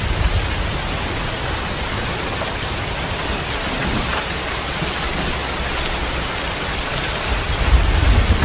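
Steady rain falling as a dense, even hiss. Under it is a low rumble that fades about a second in and swells back near the end.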